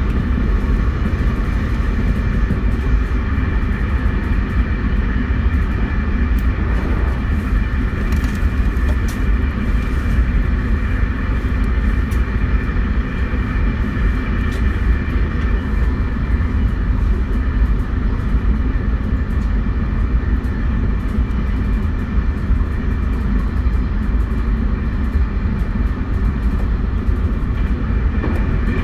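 271 series limited-express electric train with a Hitachi SiC inverter, running steadily: a low rumble with several steady high tones over it and a few faint clicks.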